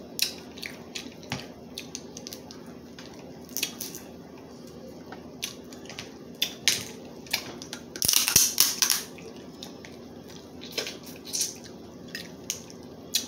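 Crab leg shells being cracked and snapped apart by hand, an irregular series of sharp cracks with a denser crunching stretch lasting about a second roughly eight seconds in.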